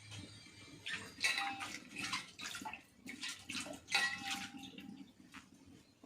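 Water splashing and sloshing in a string of irregular bursts, busiest between about one and five seconds in.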